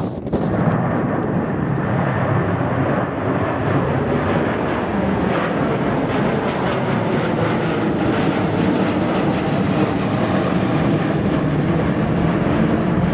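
Jet airliner's engines, a loud steady rushing noise. Wind buffets the microphone about the first half second.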